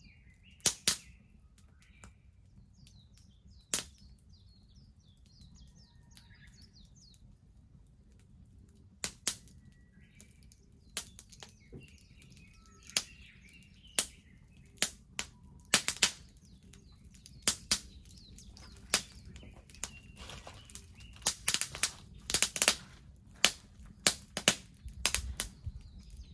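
Wood bonfire crackling, with sharp pops and snaps that are scattered at first and come more often in the second half. Small birds chirp in the background during the first several seconds.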